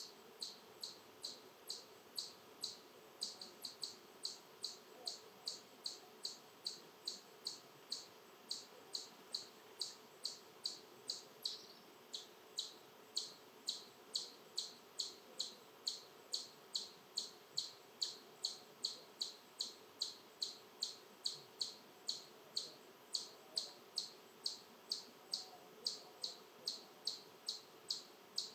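A long, even series of sharp, high-pitched chip calls, about two a second, from a single small animal.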